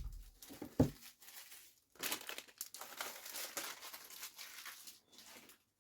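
Plastic packaging crinkling and rustling as it is handled, after a couple of soft thumps in the first second.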